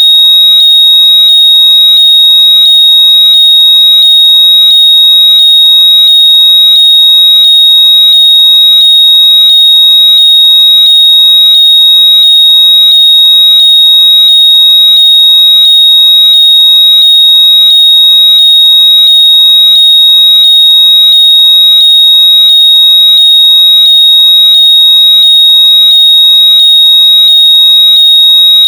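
Very loud, steady, high-pitched electronic tone, with fainter falling chirps repeating about three times every two seconds underneath. It is a synthesized alarm-like noise meant to be played through lost earbuds so they can be found by ear.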